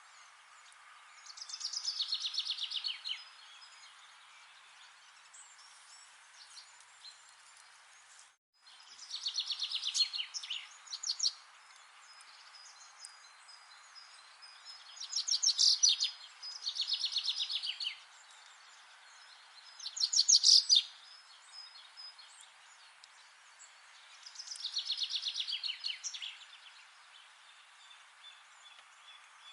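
A songbird singing short phrases of rapid trilled notes, about six phrases a few seconds apart, over a steady faint background hiss of the forest. The sound drops out for a moment about eight seconds in.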